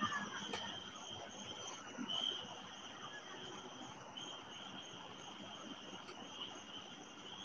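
Crickets trilling steadily in a high, continuous chorus, with faint scattered rustles and knocks underneath.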